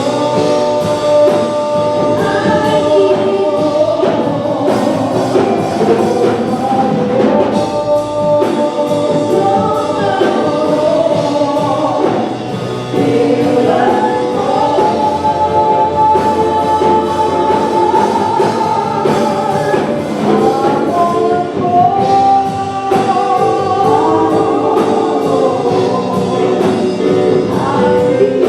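Gospel choir singing a congregational song with a band and a steady drum beat.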